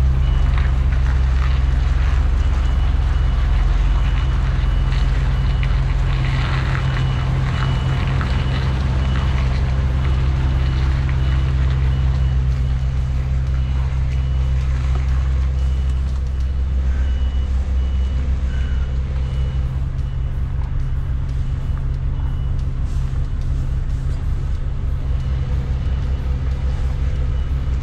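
Cab interior of a MAN lorry at speed: the diesel engine and road noise drone steadily and low, with a faint high-pitched beep repeating for most of the time.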